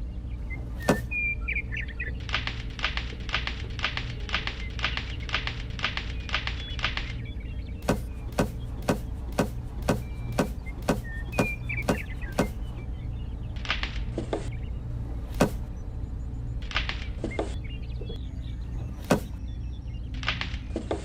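Runs of sharp taps over a steady low hum: a quick regular series of about three taps a second for several seconds, then louder single taps about two a second, then scattered ones, with a few faint short chirps in between.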